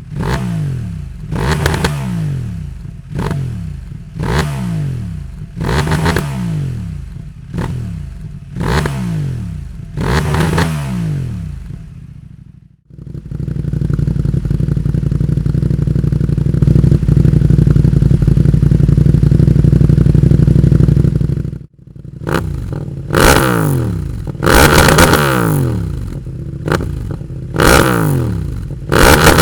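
CF Moto 800 MT-X parallel-twin engine through a Dominator GPF slip-on exhaust, revved in quick throttle blips about every one and a half seconds. After a cut about 13 seconds in, the same slip-on with the catalytic converter removed is held at steady high revs for about eight seconds, loud. It then drops off sharply and is blipped again in quick rev bursts.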